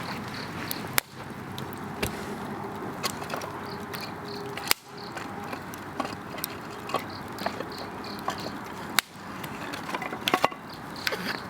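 Wood campfire crackling and hissing, with sharp snaps and pops, the loudest about a second in, near the middle and about nine seconds in. Insects chirp steadily behind it in quick high pulses, several a second.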